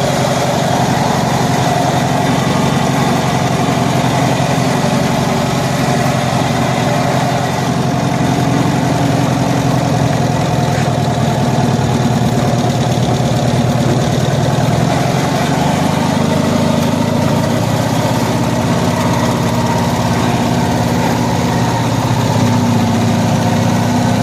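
1974 Cushman Truckster's engine idling steadily, with valve noise audible that its owner hears even though he thought he had adjusted the valves.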